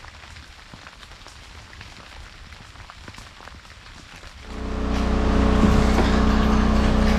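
Faint scattered ticking, then about four and a half seconds in an engine starts up, swelling over about a second into a loud, steady running hum.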